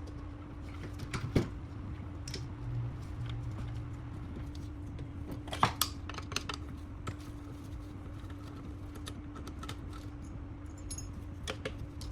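Scattered small clicks, clinks and knocks of hand tools and parts being handled, with a sharper knock about a second and a half in and another near the middle, over a steady electrical hum.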